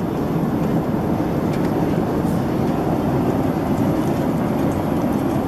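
Steady cabin noise of a Boeing 767-300ER: an even, unbroken rumble of engines and rushing air.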